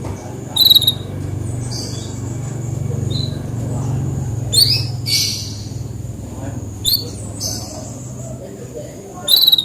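Domestic canary singing in short bursts: four quick, high, sweeping phrases, the one about halfway through a longer rapid trill. A steady low hum and a thin steady high tone run underneath.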